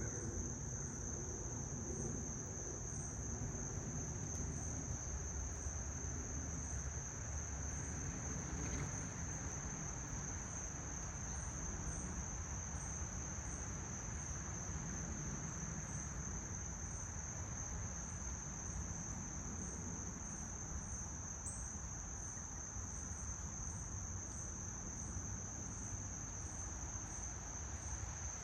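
Insects, crickets by their sound, trilling in one steady, unbroken high tone, with a fainter chirp repeating regularly above it and a low steady rumble underneath.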